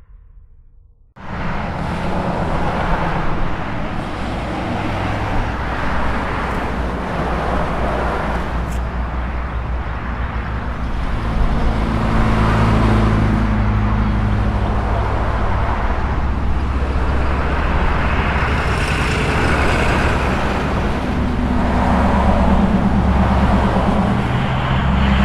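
Engine hum and tyre and road noise of a moving car, heard from inside, running steadily after starting about a second in, with no siren heard.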